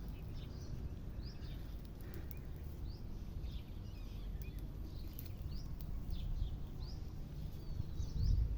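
Small birds chirping again and again in short rising chirps, over a steady low outdoor rumble.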